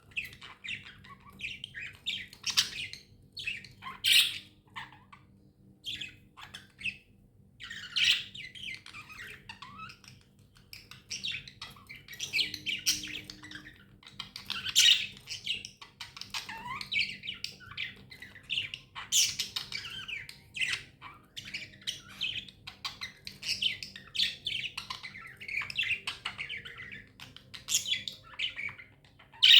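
Budgerigars chirping and chattering continuously, with sharp squawks mixed in among the warbled calls.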